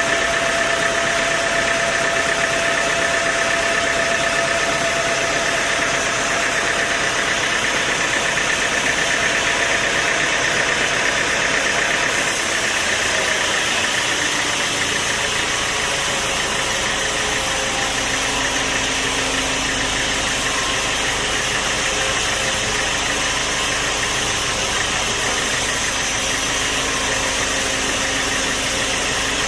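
Sawmill machinery running steadily, with a high whine over the noise that fades out about halfway through.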